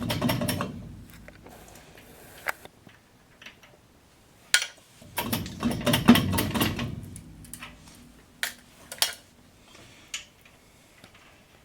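Intermittent metallic clanks, rattles and sharp knocks as a brake drum and hub are worked at with tools, with a denser run of clatter about halfway through.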